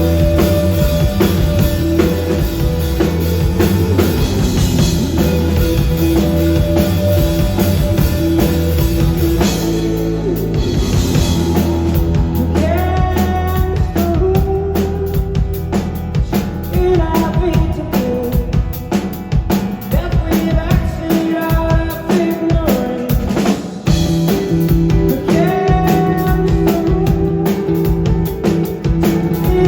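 A rock band playing live, recorded from the audience: drum kit, bass and electric guitar. A lead vocal melody comes in about twelve seconds in.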